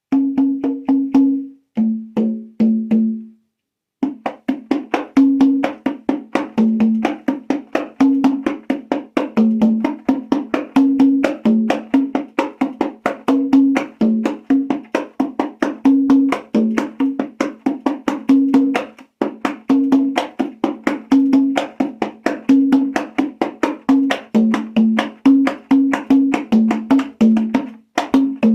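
Compact congas with synthetic heads played by hand in a steady rhythm, sharp strokes alternating between two drum pitches, with a short pause about three seconds in.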